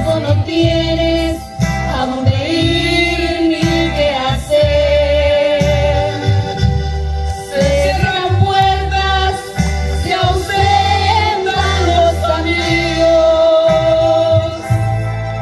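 A woman singing a Spanish-language Christian praise song over instrumental backing with a steady bass line, her held notes wavering with vibrato.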